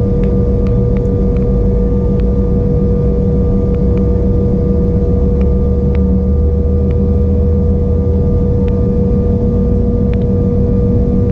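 Steady cabin noise aboard an Embraer E175 jet: the even hum of its GE CF34-8E turbofan engines, with a steady tone held throughout.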